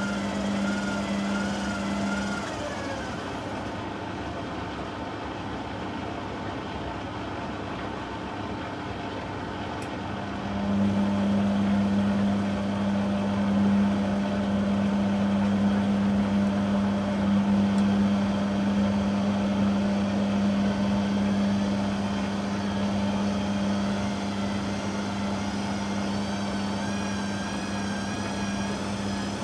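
Beko WTG620M1 washing machine running a wash programme, its motor whine wavering up and down. A steady low hum cuts out about two seconds in and comes back louder about ten seconds in.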